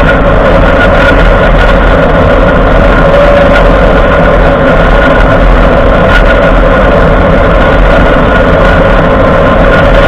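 Steady grinding and drivetrain hum from a Ford F-150's front end, picked up close from under the truck while it is driven, with an even ringing tone running through it. The front axle shaft is spinning with the wheel even in 2WD, a sign of integrated wheel end (IWE) failure, which the dealership takes for a locked-up wheel hub.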